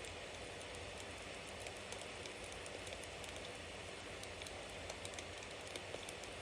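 Bonfire burning: a steady hiss of flames dotted with many small crackles, and a few sharper pops near the end.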